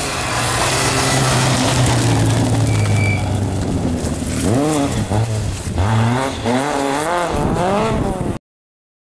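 Rally car engine running at a steady pitch, then revving up and down repeatedly over the last few seconds before the sound cuts off abruptly.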